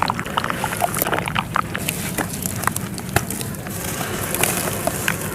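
Dry sand-clay crumbling and crunching: a dense, irregular run of small crackles and crunches.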